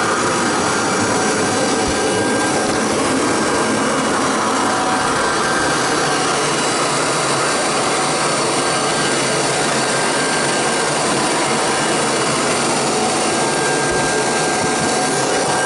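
Kirby Heritage II upright vacuum, fitted as a canister with hose and wand, running steadily while it cleans bare floor: an even rush of air with a faint steady motor whine.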